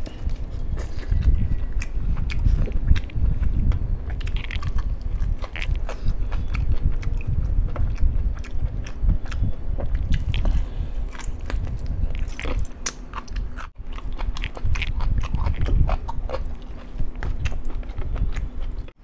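Close-miked chewing and biting: a man eating crispy fried chicken drumsticks and masala rice by hand, with many small crisp clicks from his mouth.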